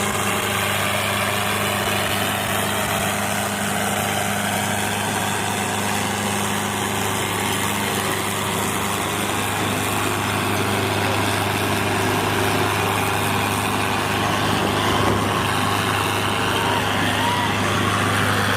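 Diesel tractor engine idling steadily, with a constant low hum.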